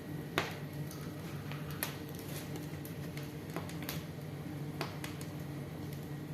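Wood fire in a fireplace crackling, with irregular sharp pops, the loudest about half a second in, over a steady low hum.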